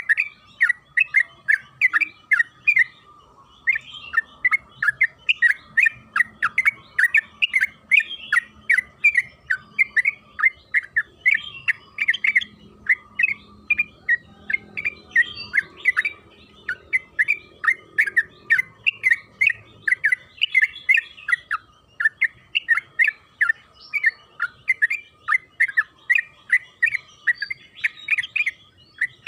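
Yellow-vented bulbul (trucukan) singing a long, rolling chatter of quick bubbling notes, about three to four a second, with one short break about three seconds in.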